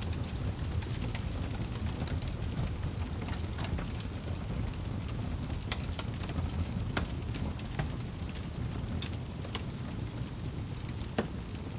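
Wood fire crackling in a fireplace: a steady low rumble of flame with scattered sharp pops and ticks from the burning logs, one louder pop near the end.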